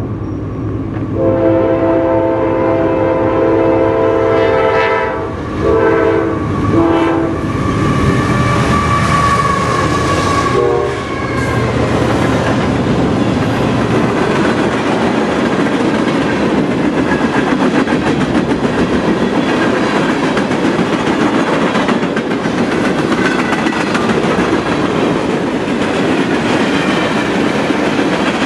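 Diesel freight locomotive's air horn sounding a chord in several blasts with short breaks as it nears the grade crossing, then the train rolling past: a long string of tank cars and boxcars, their wheels clicking steadily over the rail joints.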